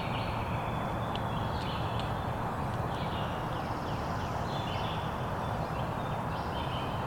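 Small birds chirping and singing repeatedly over a steady rushing background noise.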